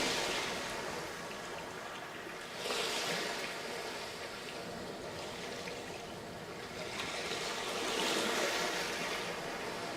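Sea waves breaking and washing up a sandy beach, the surf swelling twice, just before three seconds in and again around eight seconds, then receding in between.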